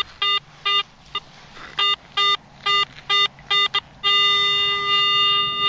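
Garrett AT-series metal detector beeping on a target: a run of short, evenly pitched beeps as the coil sweeps over it, then one steady held tone about four seconds in. The signal is smooth and repeatable with no iron grunt, which the detectorist reads as a non-ferrous target such as a button or pull tab.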